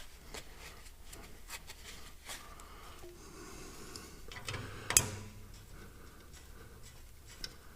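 Faint scattered clicks and taps of hand work on the tractor, with one sharper knock about five seconds in and a small tick near the end.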